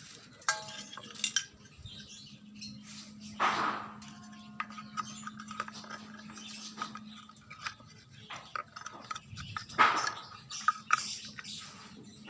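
Irregular metallic clinks, clicks and knocks of tools and small parts being handled, with a faint steady hum under the first half and a louder clatter about three and a half seconds in and again near ten seconds.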